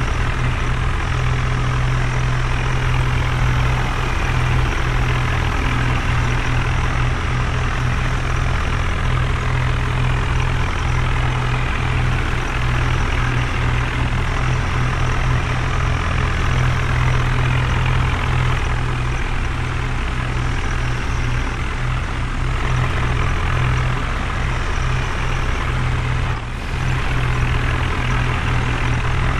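Heavy diesel engine running steadily with a strong low drone, briefly dipping near the end.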